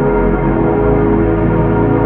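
Ambient drone music for sleep: many sustained tones layered over a deep rumble, with the bass notes shifting about half a second in.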